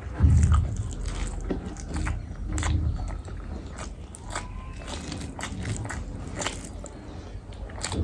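A person chewing and biting food close to the microphone, with many short wet mouth clicks and soft low thumps at an irregular pace.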